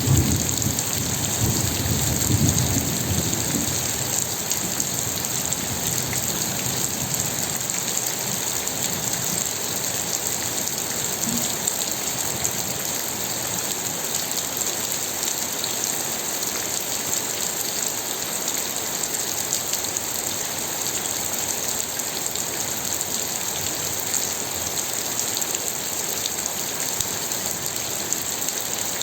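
Steady rain falling and hitting a surface, an even hiss without let-up. A low rumble is mixed in during the first few seconds and fades out.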